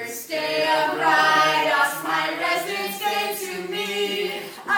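A group of voices singing together unaccompanied, a cappella.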